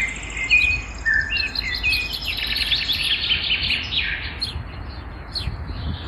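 Several songbirds singing at once, a dense chorus of overlapping chirps, whistles and trills.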